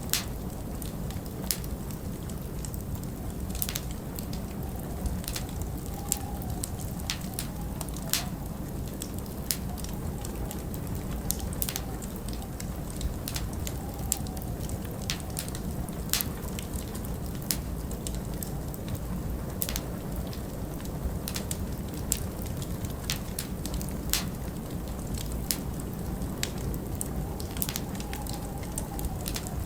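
Wood fire crackling with frequent irregular sharp pops over a steady low rumble of winter wind. A faint wavering whistle rises and fades twice.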